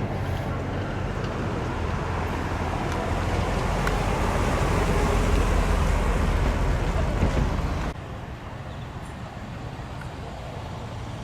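Car engine and exhaust rumbling as a car drives in, growing louder, then cutting off abruptly about eight seconds in, leaving a quieter engine running.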